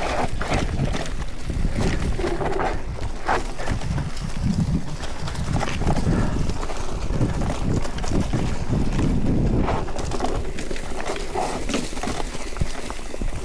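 Mountain bike descending a rough trail: tyres rolling and crunching over dirt and stones, with the bike clattering and knocking over bumps in quick irregular succession.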